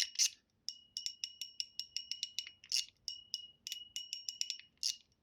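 Mechanical fidget slider being worked back and forth, its spring-and-ball detents snapping in quick runs of clicks, several a second, each with a short high ring.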